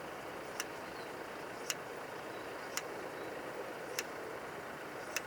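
A steady background hum with a sharp tick about once a second, evenly spaced.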